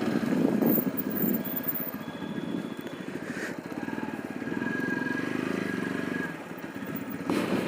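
TVS Apache RTR 200 4V's single-cylinder engine running, its level rising and falling.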